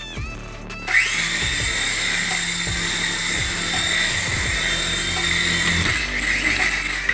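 Small electric motor of a toy radio-control helicopter spinning its rotor, a loud steady high whine. The whine rises sharply about a second in, holds level, and cuts off near the end.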